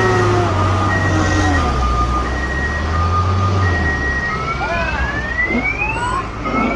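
Heavy vehicle engine running under a two-tone siren-like alarm, a high and a low note alternating about every three-quarters of a second, which changes to rising whistle-like glides in the second half.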